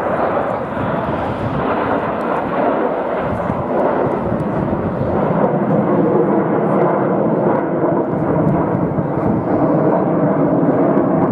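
Red Arrows BAE Hawk jets flying past, giving a loud, steady rushing jet roar.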